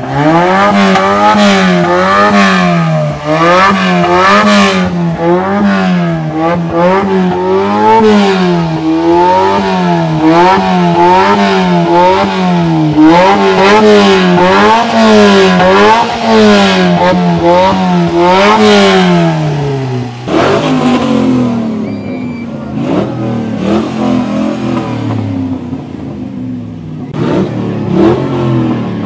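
Car engine revved hard at a car meet, its pitch swinging up and down evenly about once a second. After about twenty seconds the revving turns irregular and a little quieter.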